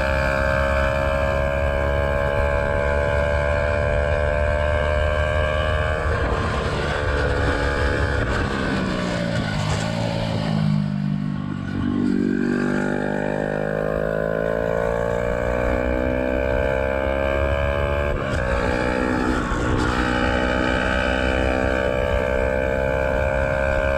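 Yamaha YZF-R125's single-cylinder four-stroke engine through a Black Widow exhaust with the dB killer removed, heard from on the bike. It holds steady revs, then the revs fall for about five seconds as the bike slows, then climb again, with two short breaks like gear changes about a second and a half apart before settling back to steady running.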